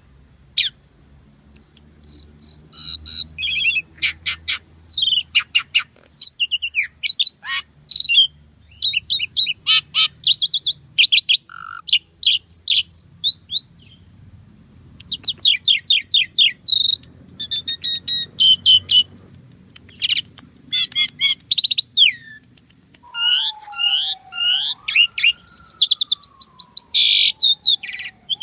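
Asian pied myna (jalak suren) singing a rapid, varied song of chirps, rattling trills and squeaky whistles. Near the end a long, slow whistle glides down, rises and falls again.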